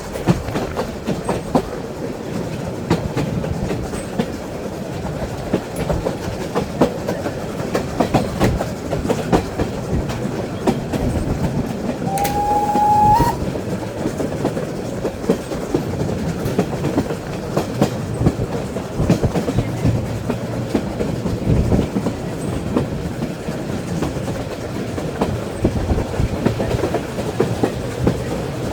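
Historic train running with its wheels clattering over rail joints over a steady rumble. About twelve seconds in, a single whistle blast lasts about a second, rising slightly in pitch at its end.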